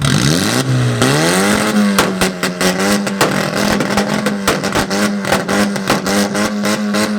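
Car engine revved up hard in about a second and a half, then held at a fixed high rpm on a two-step launch-control limiter, the exhaust popping and cracking rapidly as the limiter cuts in.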